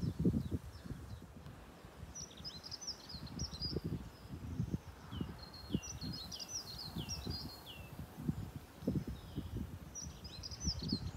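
A songbird singing in three short phrases of quick chirps and falling whistles, over irregular low gusts of wind buffeting the microphone.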